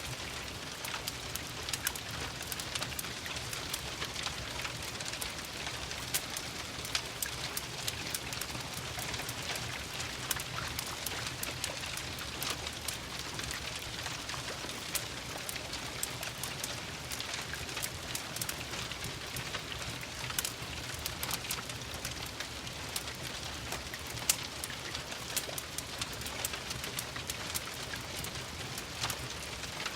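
Steady rain pattering, mixed with frequent sharp pops and crackles from a wood fire in a fireplace.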